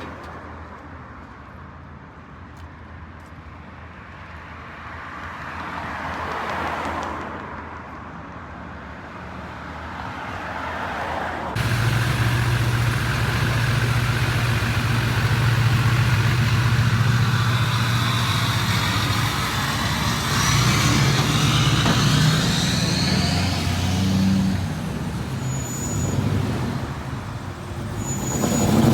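Motor vehicle sounds: a quieter stretch where the noise swells and fades, then a sudden change about eleven seconds in to a louder vehicle engine running steadily, its pitch rising and falling a little later on.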